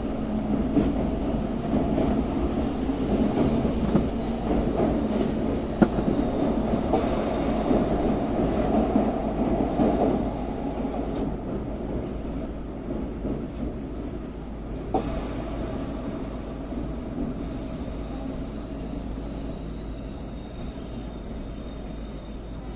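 Tokaido Shinkansen train heard from inside the passenger cabin, a steady running rumble that grows quieter through the second half. A faint high whine joins it midway.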